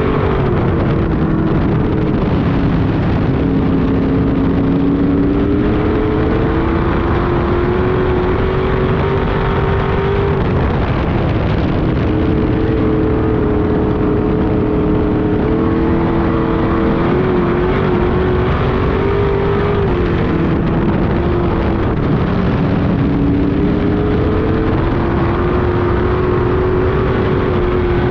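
Street stock race car engine running hard on an oval track. Its pitch dips twice as the driver lifts for a turn and climbs again as he gets back on the throttle.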